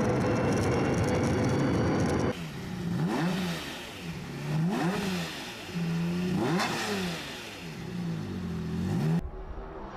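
A supercar engine running hard and steady, then a cut to another car's engine revved in about four blips, the revs climbing and falling back each time.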